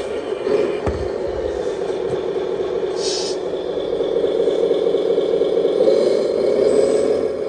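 Electronic sound module in a 1/14 RC Iveco truck playing a simulated diesel truck engine through its small speaker: the engine starts and runs steadily, with a short hiss about three seconds in.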